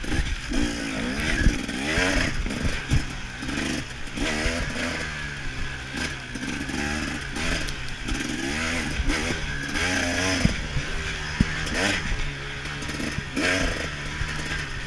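KTM 300 XC-W's two-stroke single-cylinder engine, its revs rising and falling again and again as the bike is ridden hard. There are a few sharp knocks and clatter from the bike.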